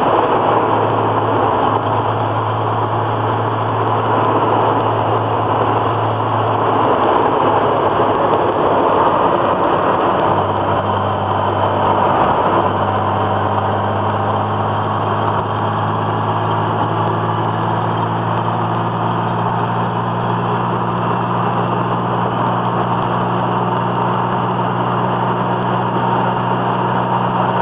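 Twin-turbo Datsun Z-car driving, its engine a steady low drone over a wide hiss of road noise. The engine tone drops away briefly about seven seconds in and again around twelve seconds, then settles back into a fuller steady drone.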